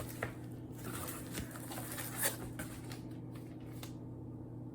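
A few soft clicks and light rustles of packaging being handled while a box is unpacked, over a steady low hum.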